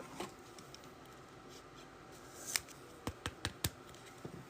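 Trading cards and plastic card holders being handled: a few soft clicks and rustles, mostly in the second half.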